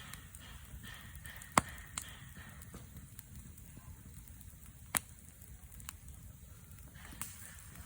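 Wood fire crackling: a low hiss with a few sharp pops, the loudest about a second and a half in and another about five seconds in.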